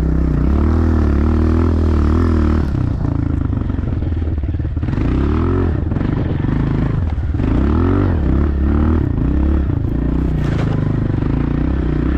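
Small dirt bike engine revving up and down several times as it is ridden.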